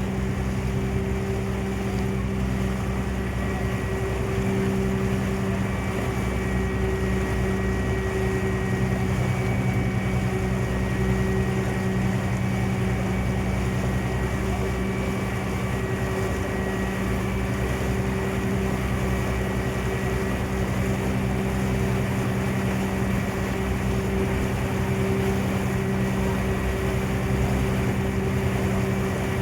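Passenger ferry's engine running steadily under way: an unchanging hum with a low drone, with some wind on the microphone.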